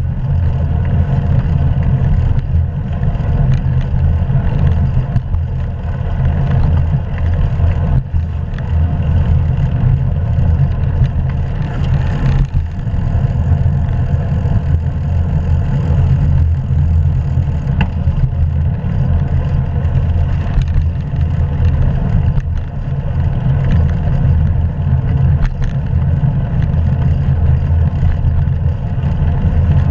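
Steady rush of riding noise on a bicycle-mounted action camera: wind buffeting the microphone, heaviest in the low end, with tyre and road noise under it.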